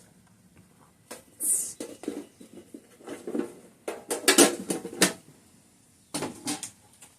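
Small plastic items being handled and set down: a string of light clicks, knocks and rustles, as resin cube molds from a set are picked out.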